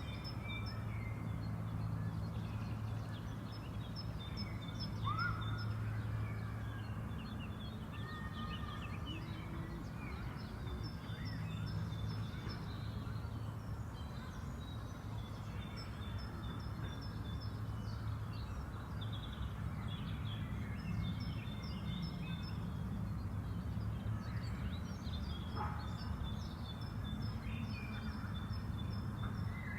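Spring park ambience: several songbirds sing, one repeating a short high trilled phrase every few seconds while others add scattered calls, over a steady low background hum.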